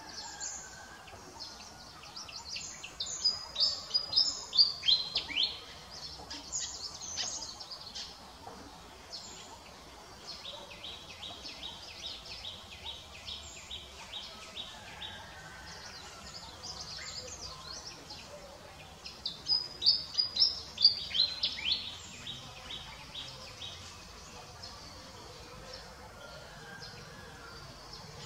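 Birds singing: two loud runs of quick, high, falling whistled notes, one early and one about two-thirds of the way through. Between them comes a steady series of evenly spaced high notes, about three or four a second, all over faint outdoor background noise.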